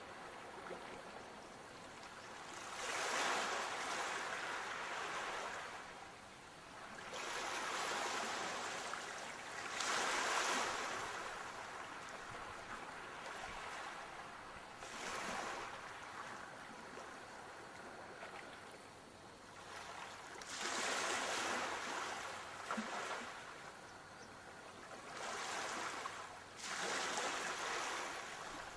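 Sea waves breaking and washing on a shore, surging about five times with quieter ebbs between.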